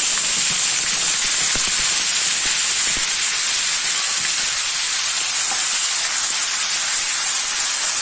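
Wet onion and tomato paste sizzling in hot oil in a frying pan: a loud, steady hiss with a few faint pops in the first few seconds.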